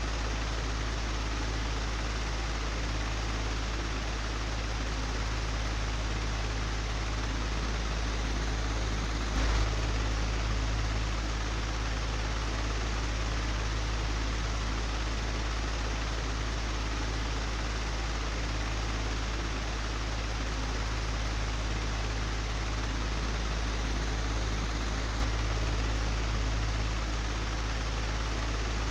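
Old, broken electric fan running steadily: a low hum under a rush of air, with a short knock about nine seconds in and a fainter one near the end.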